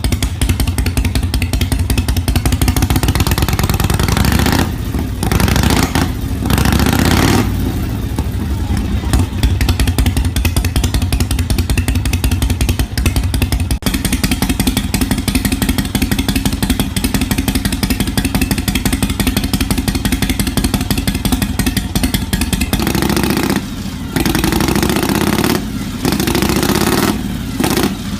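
Engine exhaust running through a trumpet-style muffler fitted with baffles, a steady, rapid exhaust note that is blipped up a few times, around 5 to 7 seconds in and again near the end.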